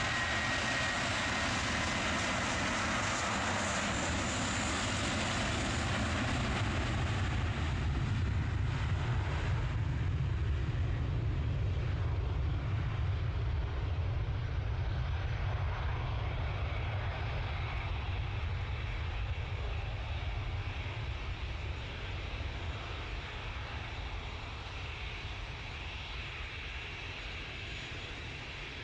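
Airliner's engines at takeoff power during the departure roll: a loud engine roar with a high whine and hiss at first, giving way to a deep rumble that peaks partway through and then slowly fades as the aircraft climbs away.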